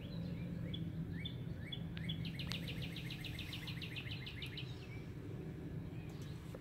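A small bird singing: a few short rising chirps, then a fast trill of evenly repeated notes lasting a couple of seconds. A steady low outdoor rumble runs underneath.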